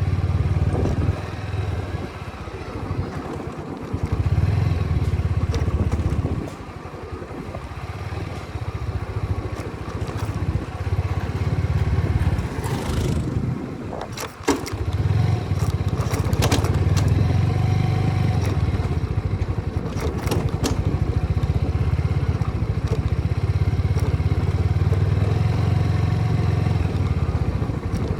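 TVS Apache motorcycle's single-cylinder engine running while riding, with heavy low wind rumble on the microphone. It runs quieter for a stretch from about a quarter of the way in to about halfway, then louder again, with a few sharp knocks around the middle.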